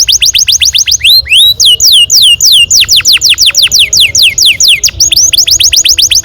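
Domestic canary singing long rolling trills: rapid runs of high, falling whistled notes, about ten a second, switching to a slower phrase of rising notes a little after a second in and back to fast runs.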